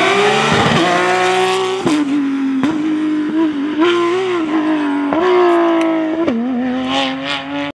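Rally car engine at high revs, accelerating hard through the gears: the engine note climbs and drops sharply at each of several quick upshifts.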